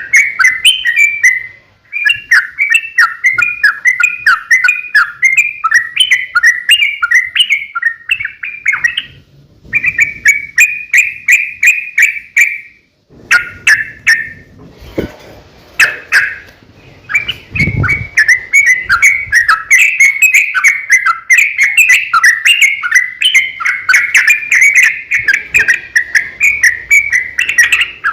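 Yellow-vented bulbul (trucuk) singing long, rapid chattering phrases, broken by short pauses about nine seconds in and again around the middle. A few low knocks sound during the middle pause.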